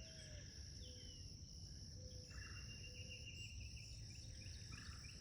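Steady, faint high-pitched drone of insects such as crickets, with a series of short bird chirps in the second half.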